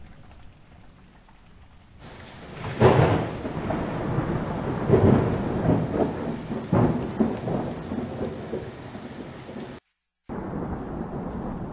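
Thunderstorm sound effect: steady rain with several rolls of thunder, starting about two seconds in, the loudest clap about three seconds in. The sound cuts out for a moment near the end, then the rain carries on more quietly.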